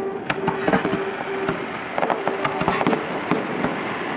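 Fireworks display: a rapid run of bangs and crackles from bursting shells, with a steady held tone sounding on and off beneath them.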